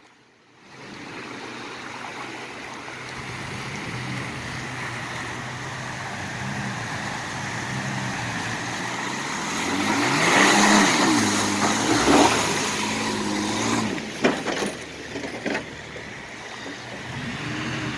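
Off-road vehicle's engine revving up and down as it drives through a shallow river crossing, water splashing loudest about ten to thirteen seconds in. A few sharp knocks follow soon after.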